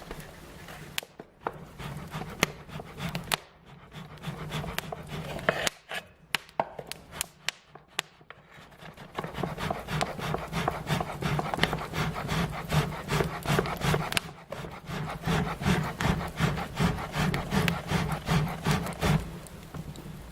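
Wood fire crackling, with scattered sharp pops that come thick and fast in the second half before thinning out near the end.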